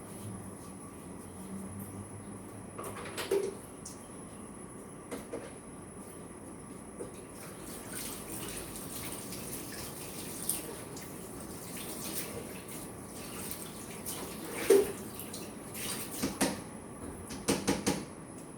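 Water running from a kitchen tap into a sink while raw chicken is washed and rubbed with salt. Sharp knocks of a bowl or pan come about three seconds in and around fifteen seconds, with a quick run of clatters near the end.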